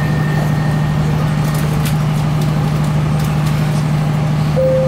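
Steady low hum inside a CAF Class 3000 diesel multiple unit standing at a platform, from its air-conditioning and idling diesel. A thin high tone stops about a second and a half in, and a lower steady tone begins near the end.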